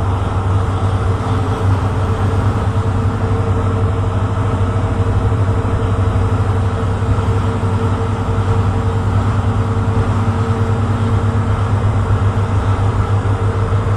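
Tugboat engine running steadily under load, a deep rapid throb with a steady hum above it.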